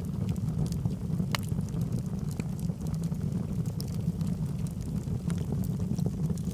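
Logs burning in a fireplace: scattered sharp crackles and pops over a steady low rumble of the flames, with one louder pop about a second and a half in.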